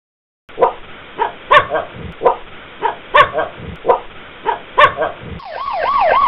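A dog barking repeatedly in short, unevenly spaced barks, starting about half a second in. About five seconds in, an emergency-vehicle siren starts, wailing rapidly up and down.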